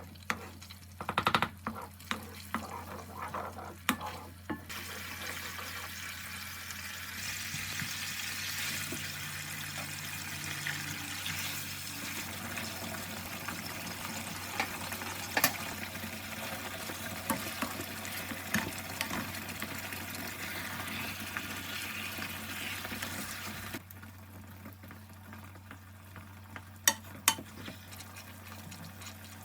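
Food sizzling in a frying pan, an even hiss with scattered pops that lasts about twenty seconds and then stops, with utensil clicks and taps before and after it. A low steady hum runs underneath.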